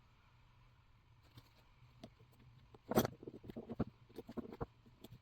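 Light, irregular clicks and taps of small carburetor parts and a hand tool as the metering gasket, diaphragm and cover are fitted back on a chainsaw carburetor; quiet for the first second, with the sharpest click about three seconds in.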